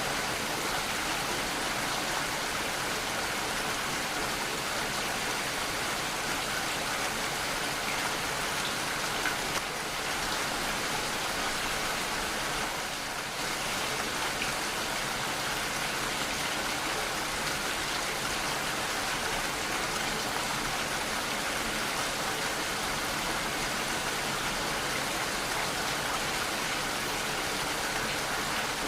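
Steady rainfall: a constant hiss of rain falling and pattering on surfaces, with no thunder.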